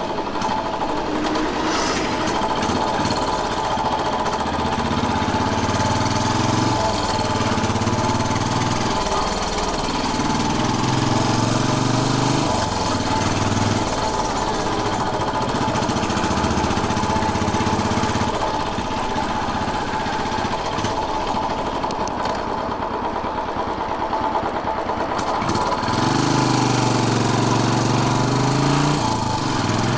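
Royal Enfield Bullet 500's single-cylinder engine running on the move, its low thumping note climbing and dropping back several times as the revs rise and ease off.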